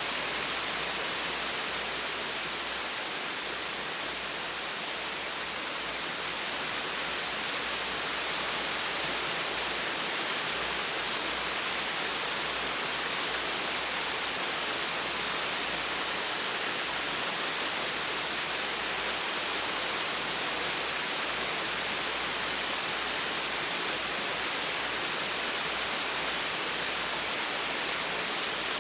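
Gentle waterfall splashing and rushing in a steady, unbroken hiss of falling water.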